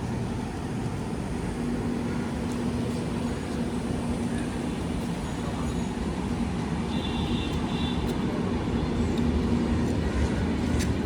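Train approaching on the tracks: a steady low rumble with a steady hum, growing slowly louder.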